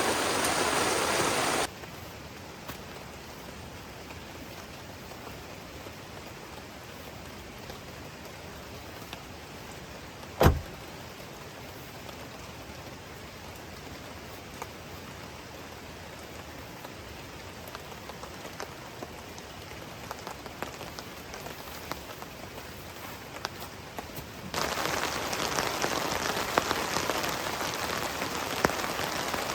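Rain. A loud steady rush of water stops abruptly in the first two seconds and gives way to lighter rain with scattered drops ticking, broken once by a sharp knock about ten seconds in. Near the end, heavy rain beating on a surface starts abruptly.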